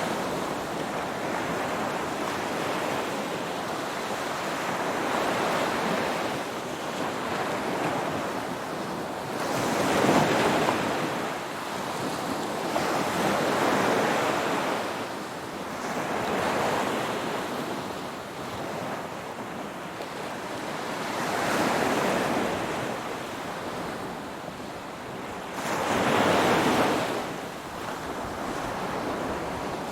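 Ocean waves washing onto a shore: a steady rush of surf that swells into a louder surge every four seconds or so, the strongest about ten seconds in and again near the end.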